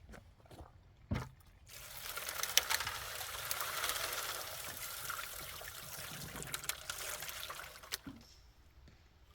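Water pouring and splashing for about six seconds, starting a couple of seconds in, with small clicks through it; a single knock comes just before it.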